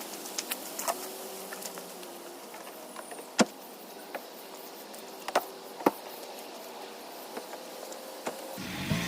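A few sharp clicks and knocks, scattered and irregular, over a faint steady hum; the loudest knock comes about three and a half seconds in. Near the end a low rumble sets in.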